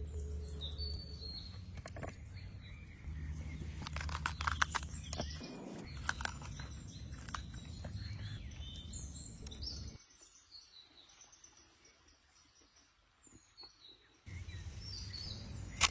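Birds chirping over a steady low rumble, with a run of clicks and knocks between about four and seven seconds in. The sound drops almost away for about four seconds from ten seconds in, then the rumble and chirps return, with one sharp knock right at the end.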